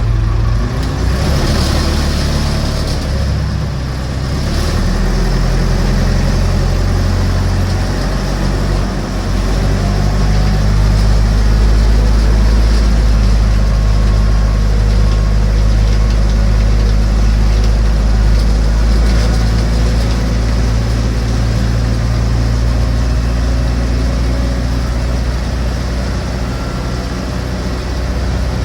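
A tractor-backhoe engine running steadily with a loud, low drone. It grows slightly louder about ten seconds in.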